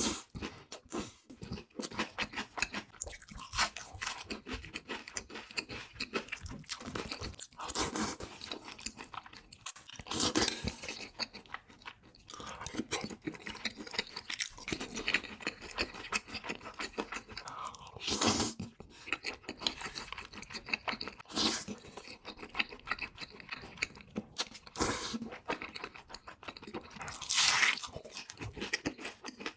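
Close-miked crunching and chewing of crispy fried food. Dense small crackles run throughout, with a louder crunchy bite every few seconds.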